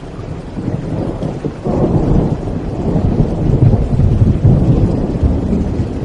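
Thunderstorm: steady rain with a deep, rolling thunder rumble that swells suddenly about a second and a half in and keeps rolling.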